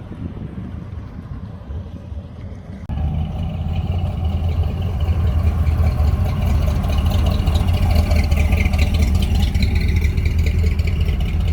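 Wind rumble on the microphone, then about three seconds in a sudden jump to a louder, steady vehicle engine running with a deep low rumble.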